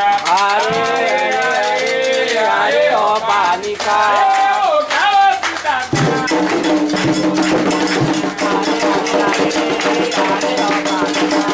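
Candomblé ritual chant: voices singing, with rattles shaken in a steady rhythm throughout. About halfway through, the singing gives way to a long held note.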